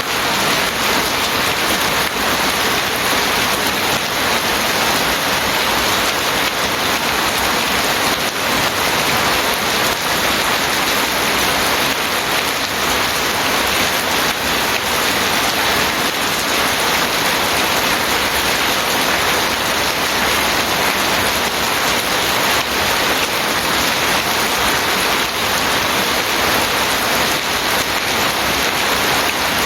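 Heavy, steady rain falling, a dense even hiss of rain on surfaces with no let-up.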